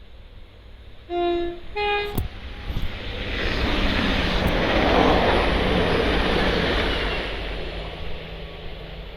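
Train horn sounding two short notes, a lower then a higher, about a second in, as the train approaches. The train then passes through at speed, a rushing rail noise that builds to a peak mid-way and fades toward the end.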